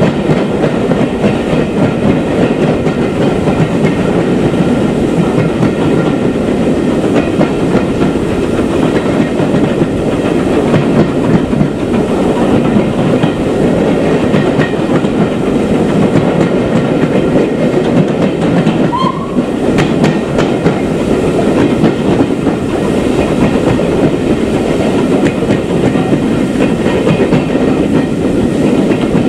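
A heritage steam-hauled train's coaches running steadily along the track, a continuous rumble with the wheels clicking over the rail joints.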